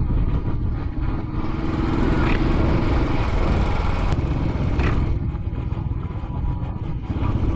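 Royal Enfield Classic 500's single-cylinder engine running while riding, under a steady rush of wind noise, with two short knocks about two and five seconds in.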